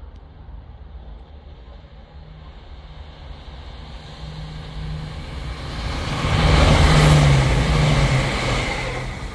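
A diesel train passing through a station. Its engine note and wheel and rail noise grow louder, peak about seven seconds in, then fade away.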